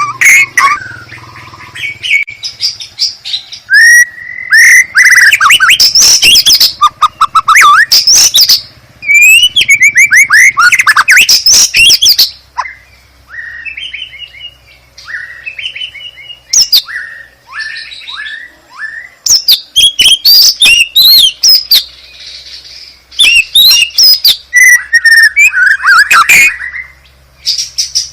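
White-rumped shama singing loudly and with great variety: fast chattering rattles, swooping whistled phrases, and a quieter run of short downward-slurred notes in the middle.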